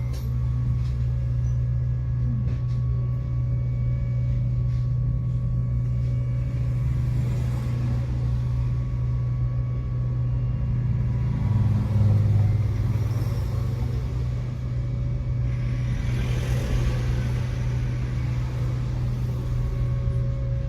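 Tram running along its route: a steady low hum and rumble, which swells briefly about twelve seconds in, with a short rush of noise a few seconds later.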